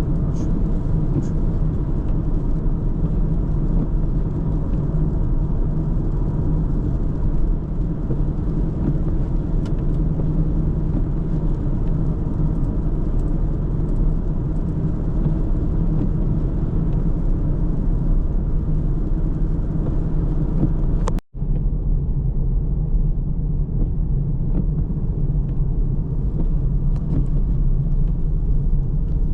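A car driving steadily: low, even road and engine rumble. A split-second dropout comes about two-thirds of the way through, and after it the sound is duller.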